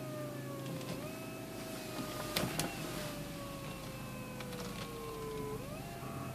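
Opel Astra H electro-hydraulic power steering pump whining, its pitch sagging slowly and jumping back up twice, with a couple of sharp clicks about two and a half seconds in. The loud hum and howl are the sign of a dying pump.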